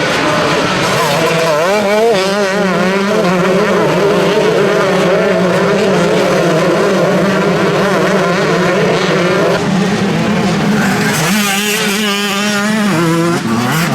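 Several motocross bikes racing round the track, their engines revving up and down through gear changes as they pass, one bike revving hard and close near the end.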